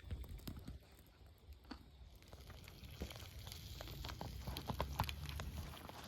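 Campfire crackling with food sizzling over it: scattered sharp pops and clicks over a hiss that grows louder and busier about two seconds in, with a low rumble underneath.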